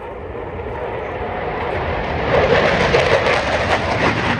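Eurofighter Typhoon's twin Eurojet EJ200 turbofans in a fast pass at about 600 knots: the jet noise builds and is loudest from about halfway through.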